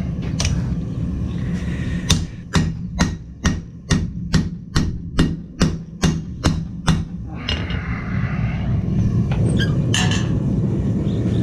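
Blacksmith's hammer striking hot steel on an anvil, about fifteen even blows a bit over two a second, stopping about seven seconds in. A steady low hum runs underneath and is louder once the hammering stops.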